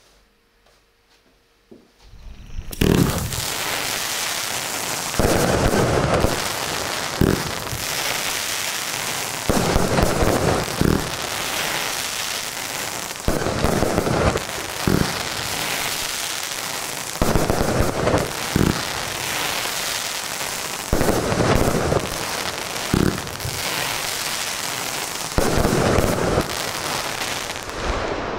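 Fan-shaped 25 mm fireworks cake firing its salvos of silver crackling shells, starting about two and a half seconds in. Loud launch thumps come every couple of seconds, mostly in pairs, over a dense, continuous crackle from the silver crackling stars.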